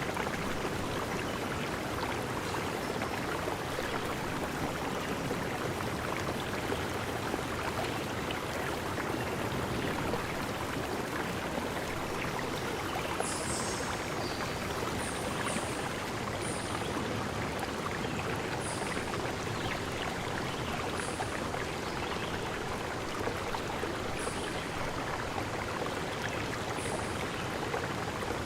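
A stream running steadily. About halfway through, a bird starts giving short, very high chirps, repeated every second or two.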